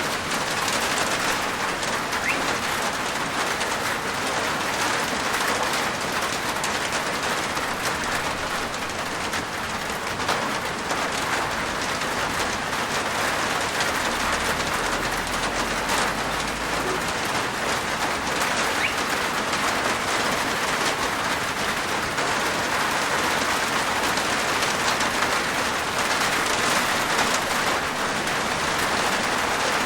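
Steady rain falling on a rooftop: an even hiss of many small drops ticking on the roof.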